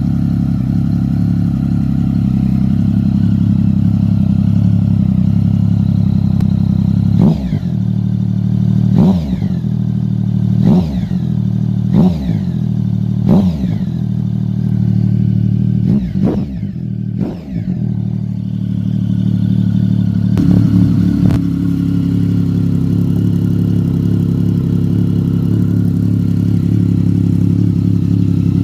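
Triumph Sprint ST 1050's three-cylinder engine idling through its exhaust, blipped seven times in quick succession in the middle, each rev rising sharply and falling back, then settling to idle again.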